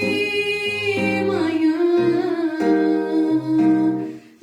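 A singer holds a long, slightly wavering note on the Portuguese word "manhã" over acoustic guitar chords. The music dips briefly just before the end.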